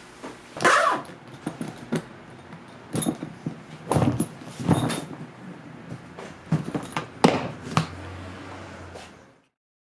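Irregular knocks, clicks and short rasps of a hard-shell suitcase and its zipper being handled, with the sound cutting off about nine seconds in.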